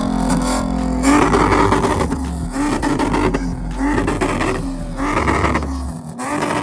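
Car engine being revved hard: it holds a high rev, then is blipped up and down again and again, about once every 0.7 seconds, and the revving stops shortly before the end.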